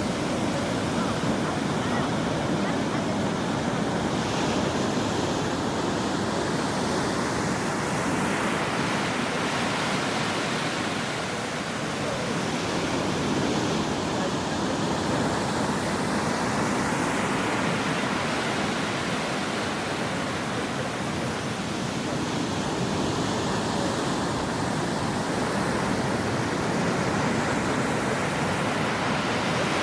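Ocean waves breaking on a shore: a continuous wash of surf that swells and eases again roughly every ten seconds.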